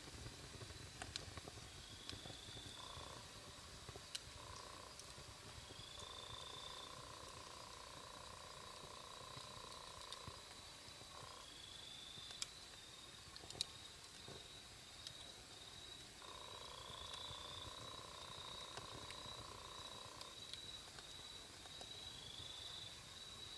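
Faint wood campfire crackling with sparse sharp pops, the loudest a little past the middle, over a low rumble of the flames. Insects call steadily behind it: a continuous high trill with short repeated chirps.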